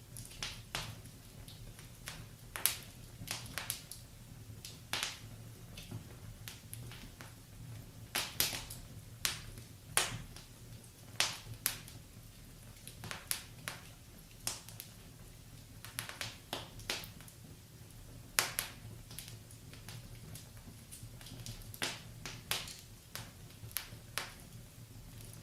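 Wood fire in a fireplace crackling: irregular sharp pops and snaps, sometimes several close together, over a faint steady low hum.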